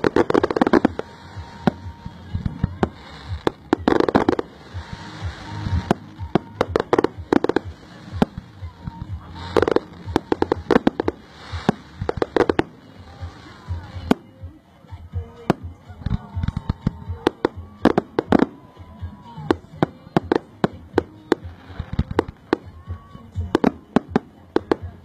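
Fireworks display: rapid volleys of bangs and crackle from bursting shells, dense for the first dozen seconds, then thinning to scattered bangs.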